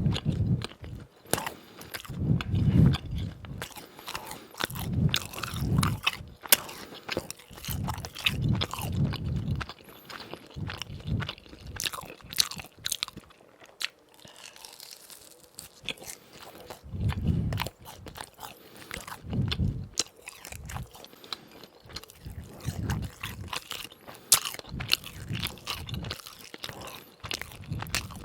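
Close-miked biting and chewing of crispy fried doughnuts: crunchy crackles over repeated chewing, in bouts broken by short pauses.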